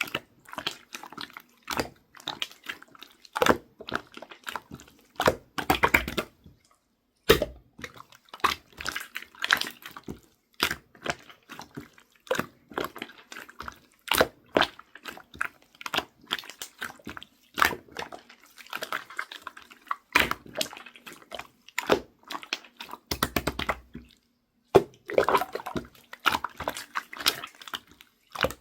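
Slime being squished, pressed and stretched by hand, giving irregular wet clicks, pops and squelches. The slime is a failed batch.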